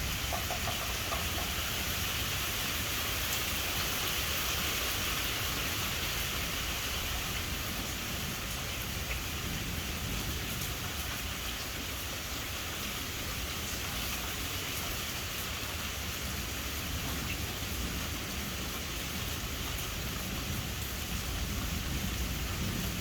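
Steady rain falling during a thunderstorm, with a low rumble of distant thunder underneath that swells slightly near the end.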